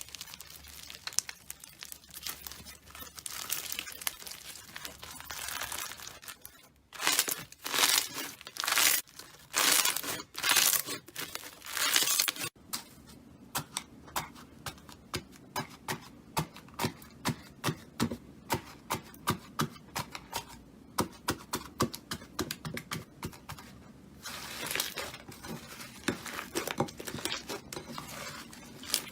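Slime being squeezed and stretched by hand, crinkling and tearing. About seven seconds in come five loud pulls, followed by a long run of rapid small pops and clicks.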